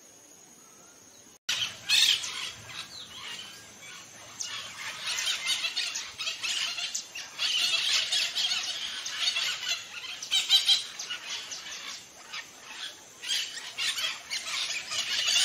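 Birds squawking and squealing: many harsh, overlapping short calls that start abruptly about a second and a half in, after a faint hiss with a thin high steady tone.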